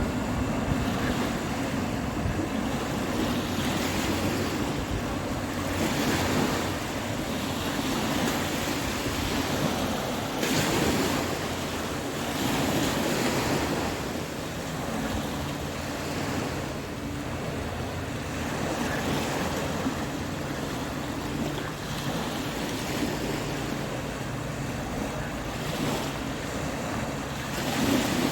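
Ocean surf breaking and washing ashore, swelling and easing as the waves come in, with wind buffeting the microphone.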